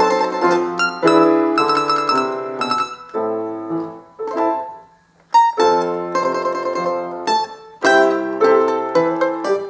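Plucked string instrument playing a lively folk-style tune with piano accompaniment; the notes die away to a brief pause about halfway through, then the playing resumes.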